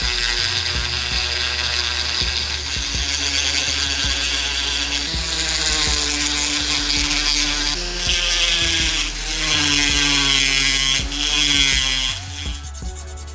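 A small handheld electric power tool, such as a rotary tool, running and working on the diecast car's metal body. Its motor pitch sags and recovers several times as it bites, and it stops about a second before the end.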